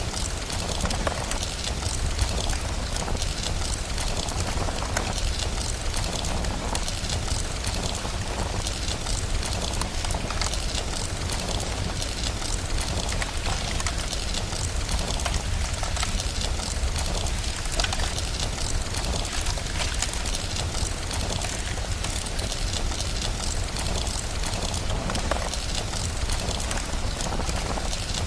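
Steady rain hissing together with a crackling fireplace: many small pops and ticks over an even rush of noise, with a constant low rumble underneath.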